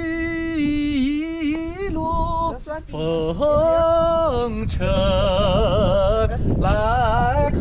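Voices singing a traditional Mongolian welcome song in long held notes with a wavering, sliding pitch, with low wind rumble on the microphone beneath.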